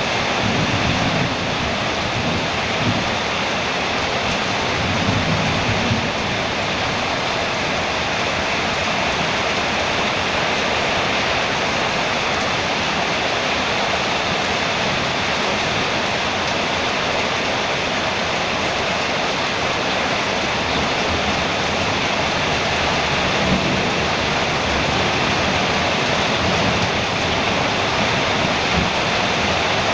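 Heavy rain falling on a metal roof: a steady, dense hiss with a few low rumbles in the first six seconds and again about two-thirds of the way through.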